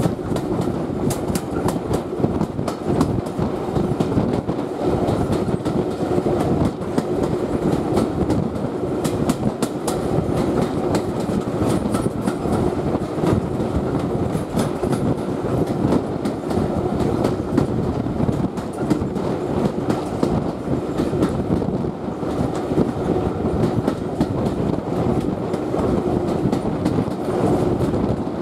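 Steam-hauled passenger coach running along the line: a steady rumble from the wheels on the track, with repeated clicks of the wheels over the rail joints.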